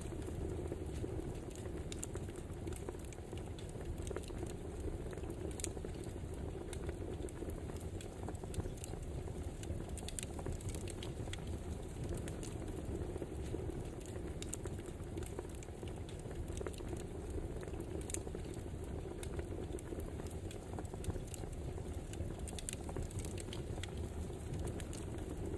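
Wood fire crackling: a steady low rush of burning with frequent sharp, irregular pops and snaps from the logs.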